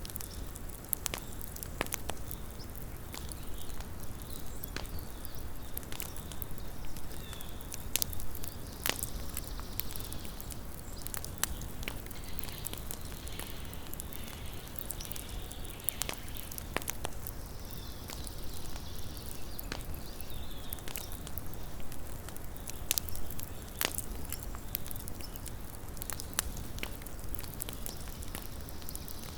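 Small wood campfire crackling, with irregular sharp pops and snaps over a soft steady rumble of burning flames.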